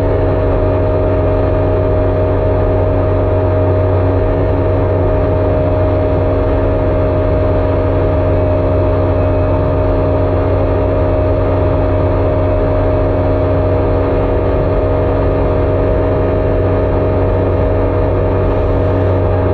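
Jet ski engine running steadily at an even speed, its tone holding constant throughout.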